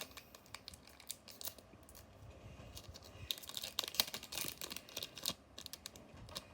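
Crinkling and crackling of a foil Digimon booster pack being torn open and handled, with the cards rustling in the hands.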